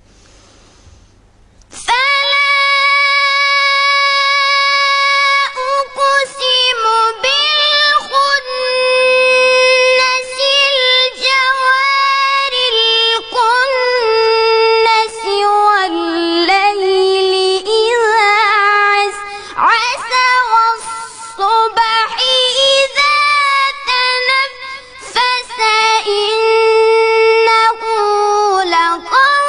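A child's high voice reciting the Quran in a melodic, chanted style, holding long ornamented notes with short breaths between phrases; it starts about two seconds in.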